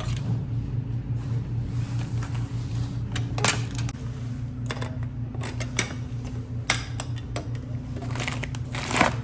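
Steady low hum of a car running, heard from inside the cabin, with several short sharp clicks and knocks scattered through it.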